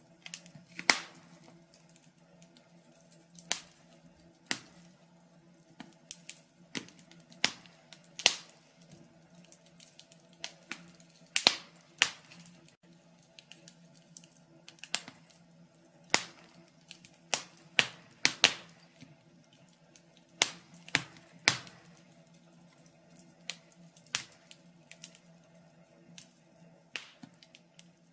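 Log fire crackling: irregular sharp pops and snaps from the burning wood, roughly one a second, some much louder than others.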